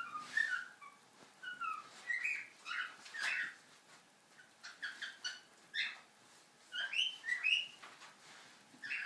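Cockatiel whistling a freestyle song: short whistled notes, some sliding up or down in pitch, strung together in quick runs with a couple of brief pauses.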